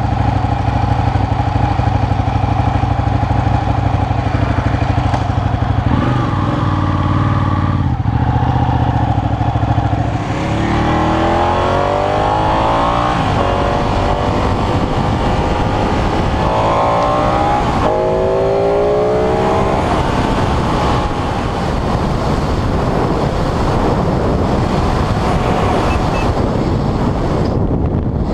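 Sportbike engine heard from a camera mounted on the bike: a steady low engine note for about ten seconds, then revs rising through several gear changes as it accelerates. This gives way to a steady rush of engine and wind noise at speed.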